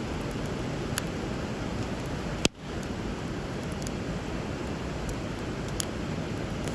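Wood bonfire crackling with a few sharp pops, the loudest about two and a half seconds in, over the steady rush of river water.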